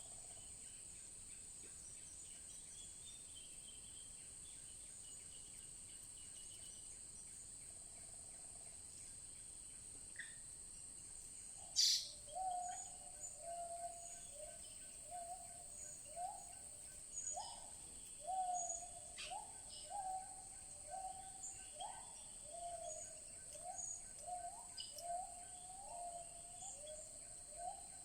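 A forest bird calling over and over in short, low, rising whistled notes, one or two a second, over a steady high-pitched insect drone. A single sharp click about halfway through is the loudest sound.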